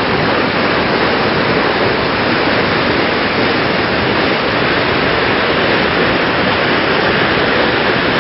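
Water pouring over the drop of a waterfall on a bypass canal, a steady, unbroken rushing sound.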